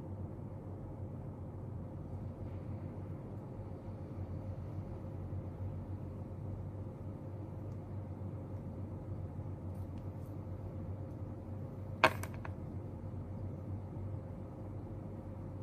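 Steady low hum of quiet indoor room tone, with a faint steady tone over it, a couple of faint ticks, and one sharp click about twelve seconds in, like a small object tapped or set down on a desk.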